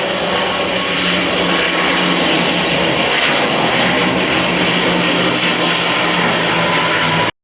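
Aircraft engines running steadily: a loud, even rush with a steady hum underneath, cutting off abruptly just before the end.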